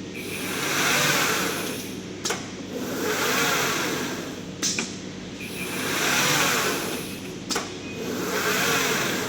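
CNC glass cutting machine running through repeated cycles: a whir that swells and fades about every two and a half seconds, each cycle ending in a sharp click.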